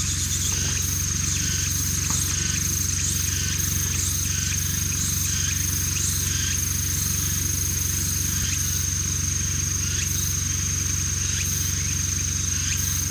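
Short animal calls repeating about once a second over a steady high-pitched drone and a low hum.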